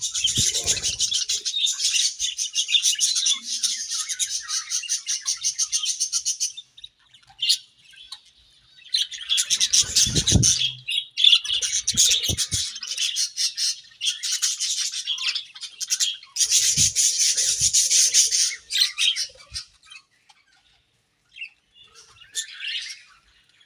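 A colony of budgerigars chattering and warbling: fast, busy chirps and squawks from several birds at once, in long bursts broken by short pauses.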